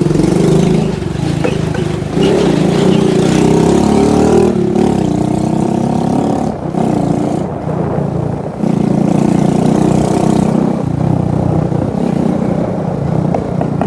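Motorbike engine running while riding, its note shifting as the throttle changes, easing off briefly twice in the middle.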